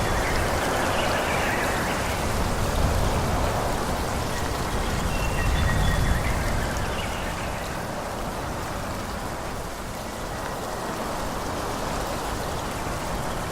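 Wind blowing through a forest as a steady rushing hiss with a low rumble, swelling in gusts about two and six seconds in and easing later on. A few brief high chirps, likely birds, come near the start and around the middle.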